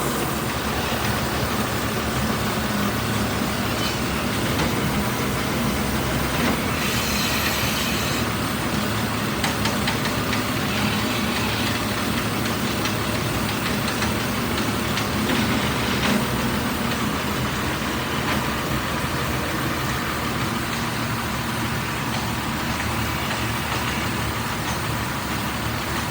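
A truck's engine running with a steady rumble and rattle, a few faint clicks now and then.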